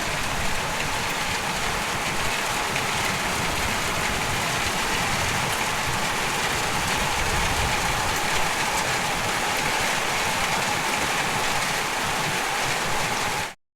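Heavy rain pouring down in a steady, dense hiss. The sound cuts out completely for a moment just before the end.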